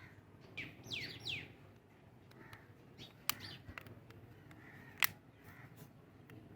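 Birds chirping, with a few quick downward-sweeping calls about a second in. Two sharp clicks stand out, about three and five seconds in.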